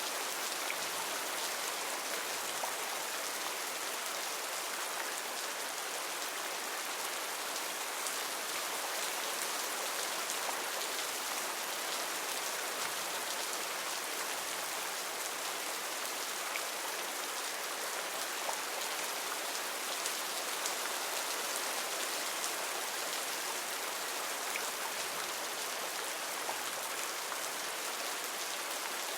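Heavy rain falling steadily, a dense even hiss with many fine drop patters and no pause.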